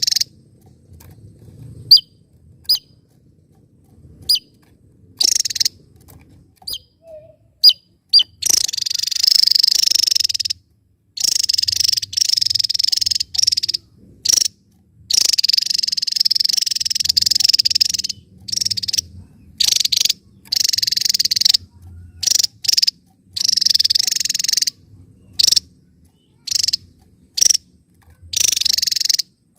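Javan tesia calling and singing: a few short, sharp single notes about a second apart, then long, rapid, buzzy high-pitched song phrases of one to three seconds each, starting and stopping abruptly.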